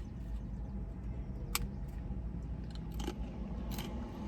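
Low steady rumble of a car's cabin, as from an idling engine, with three short sharp clicks or taps about a second and a half, three, and three and a half seconds in.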